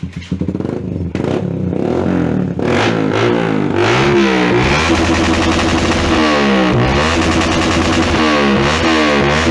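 Yamaha Jupiter MX King's single-cylinder four-stroke engine running through a Proliner TR-1 aftermarket exhaust and being revved in repeated blips, with electric guitar music playing along.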